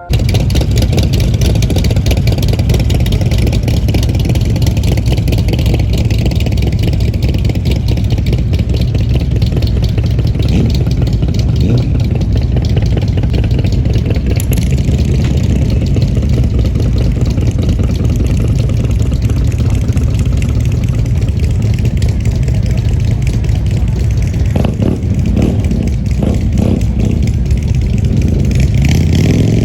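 Motorcycle engine running loudly and steadily, its low pulsing sound unbroken throughout.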